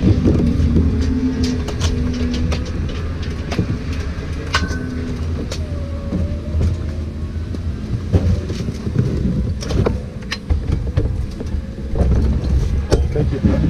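Motorcycle engine running at low, fairly steady revs, with scattered sharp clicks and knocks over it.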